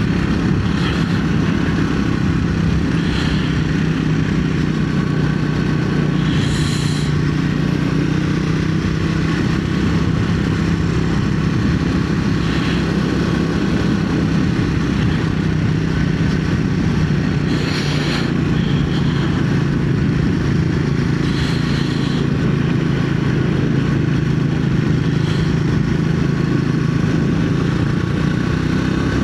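Triumph Speed 400 single-cylinder engine running steadily as the motorcycle cruises at an even engine speed, with a few brief higher-pitched sounds over it.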